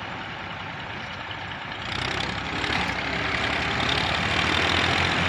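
Tractor diesel engine running under load, getting louder and harsher about two seconds in and staying loud.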